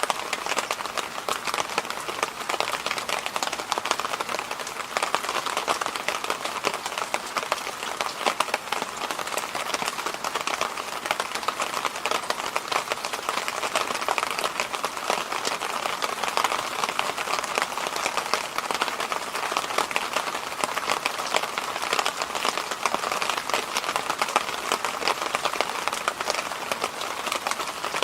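Electric fan running steadily: an even rushing noise with a fine crackly grain and no change in speed.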